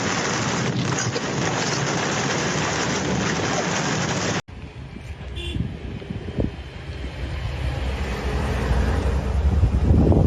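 Heavy rain pouring down in a steady hiss. After a sudden cut about four seconds in comes a lower, gusty rumble of wind on the microphone, growing louder near the end.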